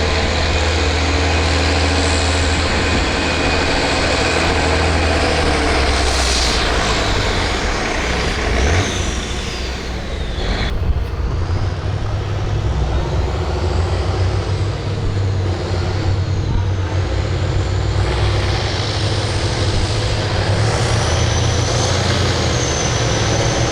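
Farm tractor's diesel engine running loud and steady under heavy load, pulling a weight sled down the track, easing briefly about nine seconds in before pulling hard again.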